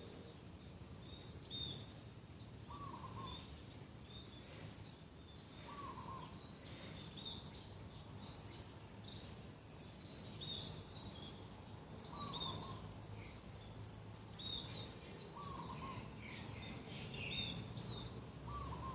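A dove cooing in short phrases, one every few seconds, while smaller birds chirp higher-pitched in between, over a low steady hum.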